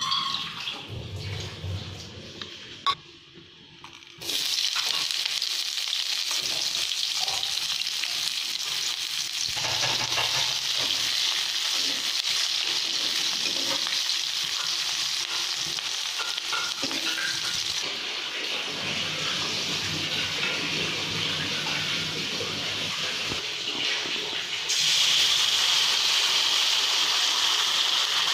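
Sliced onions sizzling in hot oil in a metal kadai: the frying hiss starts suddenly about four seconds in and runs steadily as they are stirred with a metal spatula. Near the end the sizzle steps up louder as a wet spice paste is added to the pan.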